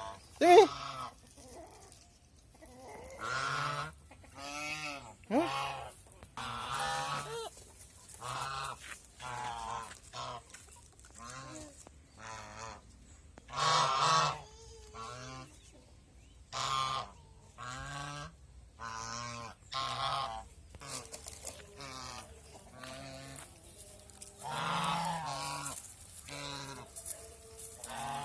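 Domestic geese honking repeatedly, a short call about every second, with two loud rising honks at the start.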